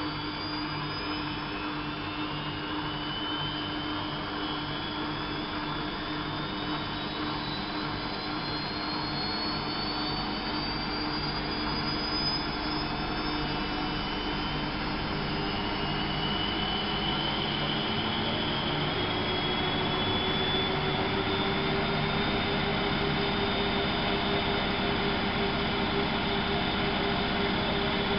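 Bauknecht WAP 6460 washing machine speeding up into a spin. The motor's whine rises steadily in pitch over the first half, and the running grows gradually louder toward the end.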